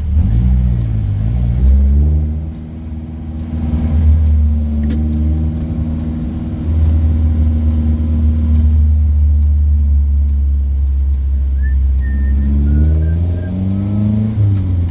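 Car engine running under way, heard from inside the car. The revs climb and drop through gear changes about a second in and again near the end, with steadier running between.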